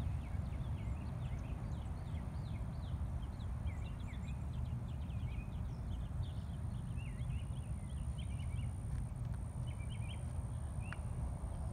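Small birds chirping in many short rising and falling calls, over a steady low rumble and a thin, steady high tone.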